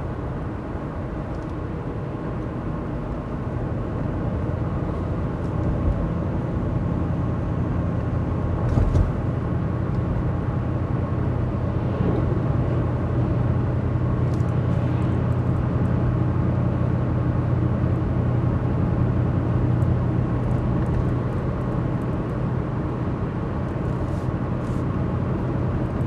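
A 2011 Ford F-150's 5.0 V8 with a Magnaflow exhaust, heard from inside the cab while cruising: a steady low drone mixed with tyre and wind noise, with the engine barely audible over the road noise. One short thump comes about nine seconds in.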